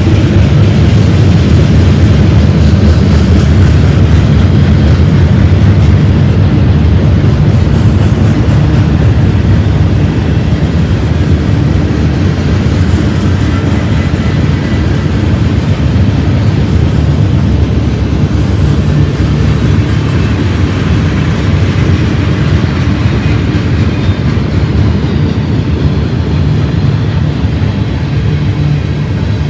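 Freight cars of a BNSF manifest train rolling past, a loud steady rumble of wheels on rail that eases a little about ten seconds in.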